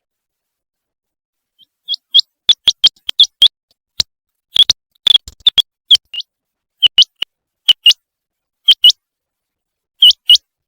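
Common quail calling: short, sharp high notes in quick groups of two or three, starting about two seconds in after silence.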